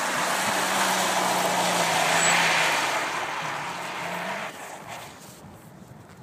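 Subaru sedan drifting on packed snow: its engine holds a steady high-rev note under a loud rushing hiss. The pitch dips and climbs again just before both cut off sharply about four and a half seconds in, leaving the car faint in the distance.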